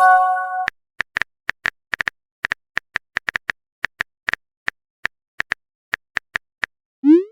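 Phone keyboard typing clicks, short sharp taps at an uneven pace of about three a second. It opens with a brief chime of a few held notes, a message alert, and a quick rising swoop sounds just before the end.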